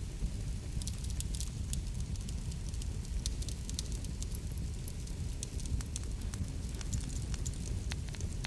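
Wood fire crackling in a fireplace: a steady low rush of flames under frequent, irregular sharp snaps and pops.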